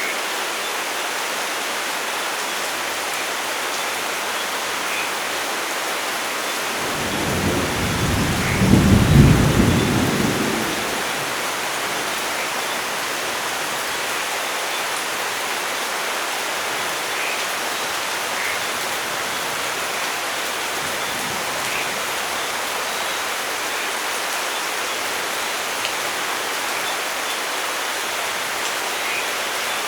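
Steady rain with a single roll of thunder about seven seconds in that swells to a peak near nine seconds and dies away over the next couple of seconds.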